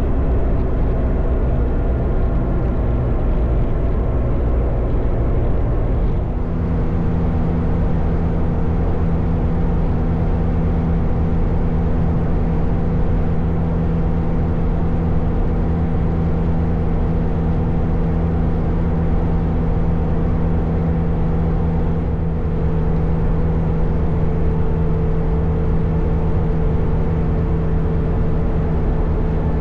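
Motorcycle engine running at a steady highway cruise, with wind and road noise. The engine note changes about six seconds in, then holds steady.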